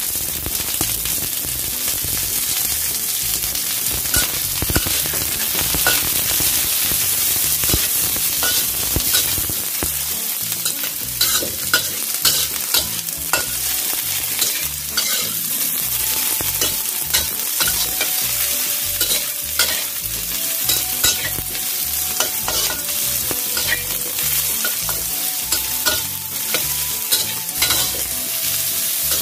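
Sliced onion, garlic and shallots sizzling in oil in a wok, stirred with a metal spatula that scrapes and clicks against the pan, the clicks coming more often after the first few seconds.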